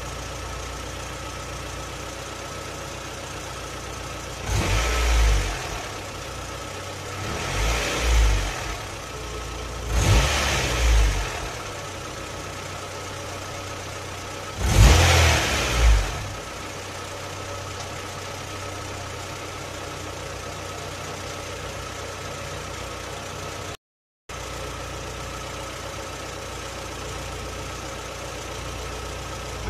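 Honda B16B 1.6-litre DOHC VTEC inline-four idling steadily, recorded close up in the engine bay over the intake manifold. It is revved in four short throttle blips in the first half. The sound cuts out for a moment about three quarters of the way through.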